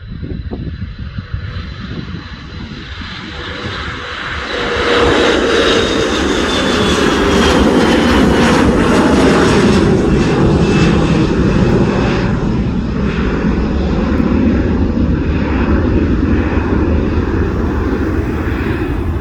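Airliner engines passing close by: the sound swells sharply about four seconds in, a high whine and a lower tone slide down in pitch as the aircraft goes past, and a loud steady engine rumble follows.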